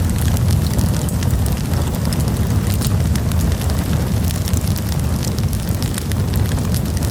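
Wood campfire burning, with frequent small, sharp crackles and pops over a steady low rumble.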